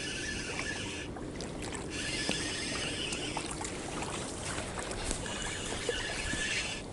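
Water sloshing and splashing at the shoreline, with scattered small clicks, as a hooked burbot is drawn in to the bank.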